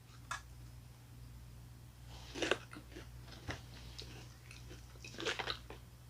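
A person biting into and chewing a cookies and cream KitKat wafer bar: a few faint, short crunches, with the clearest clusters about two and a half and five seconds in.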